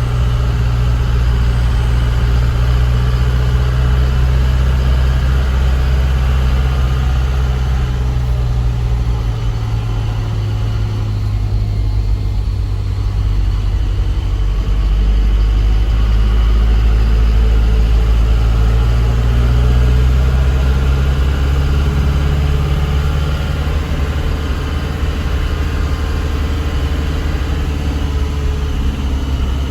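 Truck's diesel engine running steadily, its pitch dropping about a third of the way in and rising again about two-thirds of the way through.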